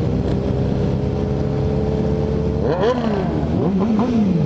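Motorcycle engines running at steady road speed, with one engine revved up and down in quick throttle blips about three seconds in.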